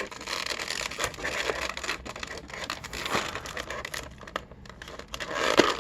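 Plastic packaging crinkling and scratching as an action figure's spare hands are taken out of it: a run of small irregular rustles and clicks that goes quieter about four seconds in.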